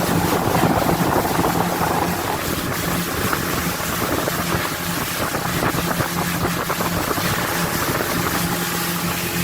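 Outboard motorboat engine running steadily at cruising speed, with wind buffeting the microphone; loud enough to drown out speech.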